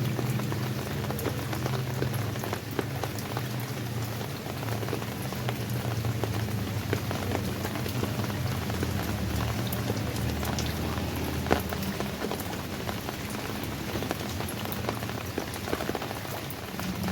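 Rain falling steadily, with many separate drops pattering on a surface over a steady low rumble.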